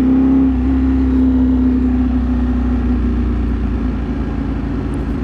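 Ducati Streetfighter V4 S's V4 engine running at a steady, held pitch while riding, easing off slightly toward the end.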